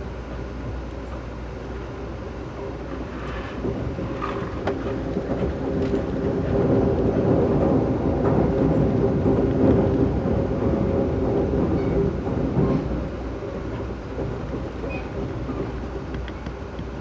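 Passenger train rolling fast on the rails, heard from on board: a steady rumble and clatter with scattered clicks and a low ringing hum. It swells louder after about six seconds and eases back near the end.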